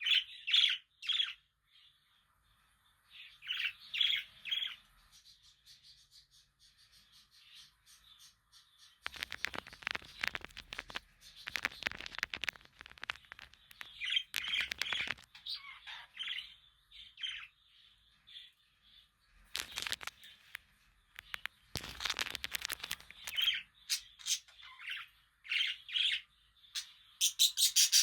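Budgerigars chirping in short, quick calls that come in clusters, with several stretches of scratchy, clicking rustle mixed in.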